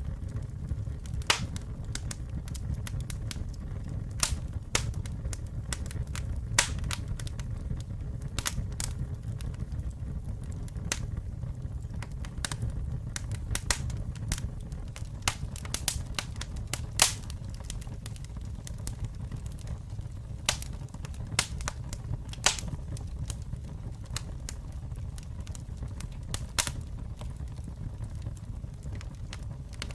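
Campfire burning: a steady low rumble of the flames with irregular sharp crackles and pops from the wood, a few of them louder snaps.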